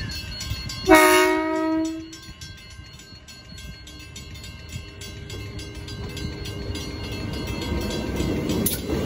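Transperth electric suburban passenger train sounding one horn blast of about a second, a little after the start. It then runs past with a steady rolling noise that grows louder as it comes closer.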